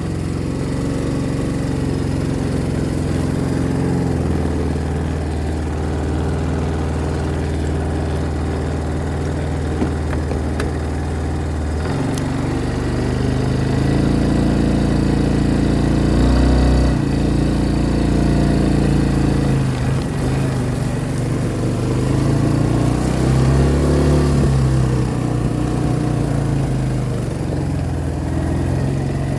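Small vehicle engine running steadily, its pitch shifting with the throttle, notably about twelve seconds in and again a little later.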